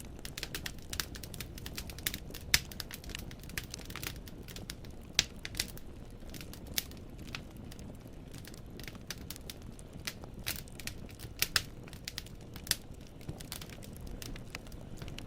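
Wood fire burning in a fireplace: irregular sharp crackles and pops of splitting logs over a steady low rumble of the flames, with a few louder pops scattered through.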